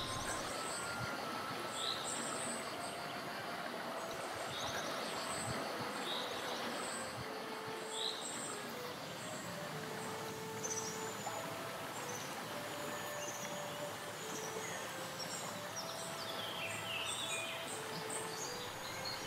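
Outdoor ambience: a steady hiss with small birds chirping and twittering every few seconds.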